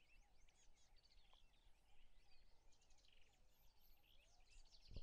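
Near silence outdoors, with faint scattered bird chirps and short whistled calls.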